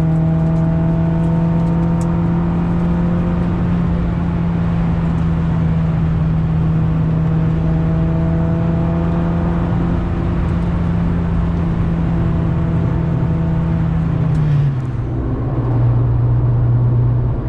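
Acura Integra GS-R's B18C1 four-cylinder engine through a Yonaka aftermarket exhaust, running at steady high revs with a constant drone. About fifteen seconds in, the revs drop and the note settles lower.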